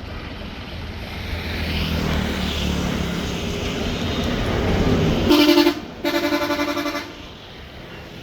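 An engine runs with a steady low drone. Then a horn sounds two blasts, a short one and then a longer one about a second later.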